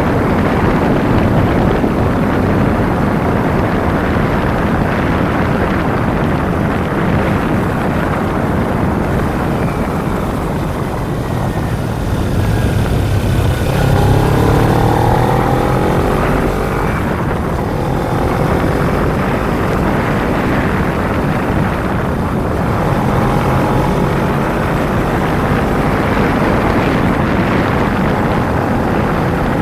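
Kawasaki Ninja 250's parallel-twin engine running at road speed under a heavy rush of wind noise. About halfway through, the engine note climbs for a few seconds as it revs up.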